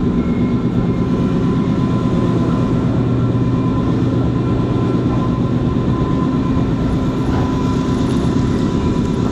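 Train running steadily, heard from inside the carriage: a constant rumble with an even motor hum over it.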